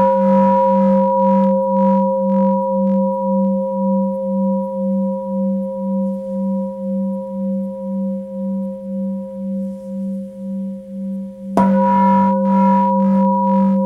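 Tibetan singing bowl ringing with a pulsing wobble of about three beats a second, slowly fading. It is struck again near the end and rings out loud once more.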